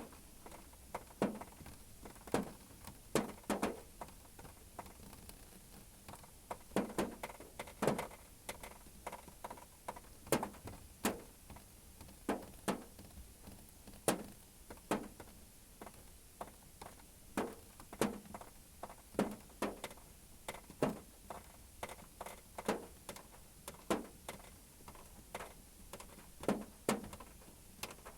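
Scattered raindrops tapping on a car roof: single irregular knocks, about one or two a second, each with a short ring, over a faint steady hiss.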